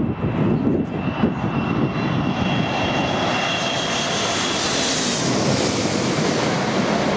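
Airliner passing low overhead on landing approach: its engine noise swells to a peak about five seconds in, with a high whine from the engines. Gusts of strong wind buffet the microphone in the first couple of seconds.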